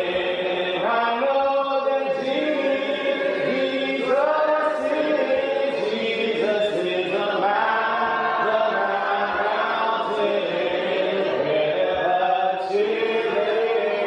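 A church congregation singing a hymn a cappella, many voices together holding long, drawn-out notes.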